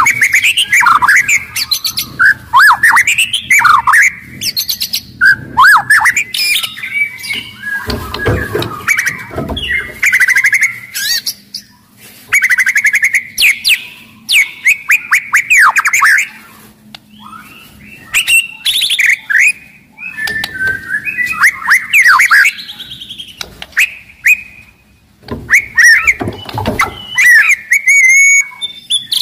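White-rumped shama (murai batu) singing loudly and almost without pause: fast phrases of sweeping whistles broken up by harsh clicking and rattling notes, with only brief pauses.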